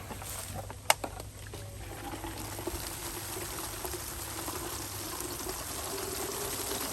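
Water being poured out of a bucket fish trap, a steady pour that starts about two seconds in, after a single sharp click near the start.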